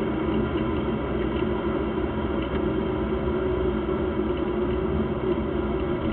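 Locost kit car's 1300cc engine running at low, steady revs, heard from the onboard camera as the car rolls slowly along.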